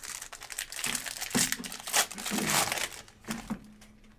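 Trading card pack wrappers being torn open and crinkled by hand, a dense loud crackle for about three seconds with a shorter burst of crinkling near the end.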